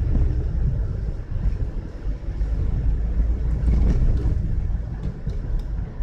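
Car driving through a blizzard: a low, uneven rumble of road and engine noise with gusting wind.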